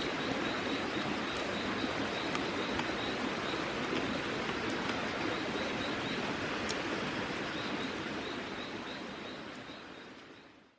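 Steady outdoor rushing noise with a faint high chirp repeating about two to three times a second and a few sharp clicks, fading out near the end.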